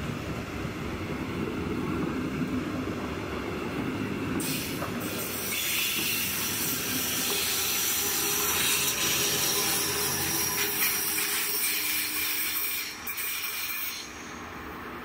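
Metronom double-deck passenger train and its Bombardier TRAXX electric locomotive rolling past, wheels rumbling on the rails. After about six seconds a high steady wheel squeal sets in and runs on as the locomotive passes. The sound drops suddenly near the end.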